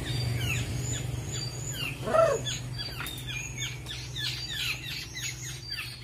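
Birds calling: a quick, busy series of short falling chirps mixed with a few clear high notes, with one louder, lower call about two seconds in. A steady low hum runs underneath.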